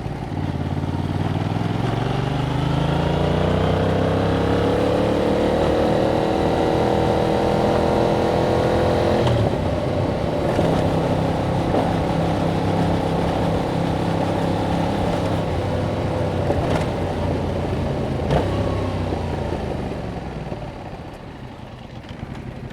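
2021 Yamaha MT-07's parallel-twin engine through its stock exhaust, under way with the pitch rising steadily for about nine seconds as it accelerates. The note breaks off suddenly, runs steadier for a while, then falls in pitch and level near the end as the bike slows.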